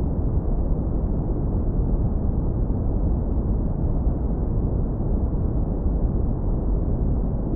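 Steady, deep brown noise, low-pass filtered so only a warm low rumble remains.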